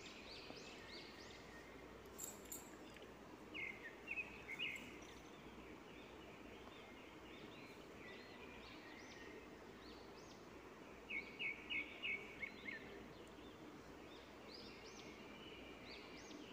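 Small birds chirping faintly in quick runs of short rising chirps, loudest about 4 s in and again about 11 to 13 s in, over a low steady background hiss.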